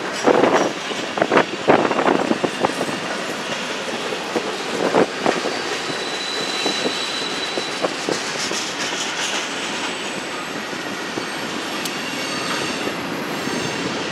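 Freight train of tank cars rolling through a curve, its wheels clacking and clanking over the rail joints, the clanks thickest in the first few seconds. A brief high wheel squeal sounds about halfway through.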